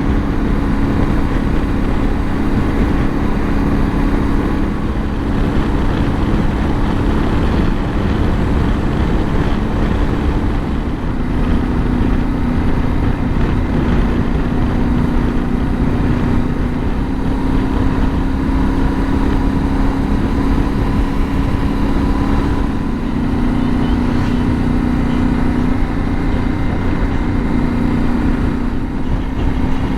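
Yamaha Ténéré 700 parallel-twin engine running at a steady cruising pace while riding, its note shifting slightly in pitch every few seconds, under a constant rush of wind noise.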